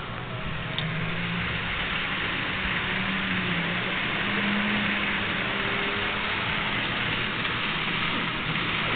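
N-scale model train running around its layout: a steady whirring hiss of the small locomotive motor and wheels on the track, with a faint low hum that comes and goes.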